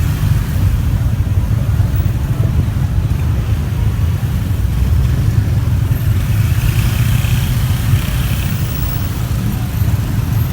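Steady low rumble of a motorbike ride through city traffic: engine, road noise and wind on the microphone, with a brief rise in hiss from passing traffic in the second half.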